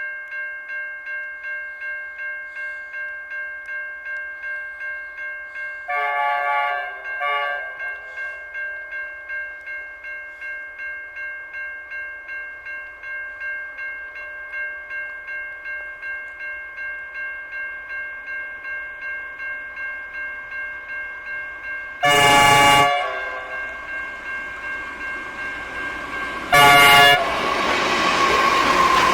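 Level crossing warning bell ringing steadily at about two strokes a second, while the approaching Pacific National NR class locomotive sounds its horn: two short blasts about six seconds in, a longer blast near 22 seconds and another near 27 seconds. Near the end the train's engines and wheels on the rails grow loud as it arrives.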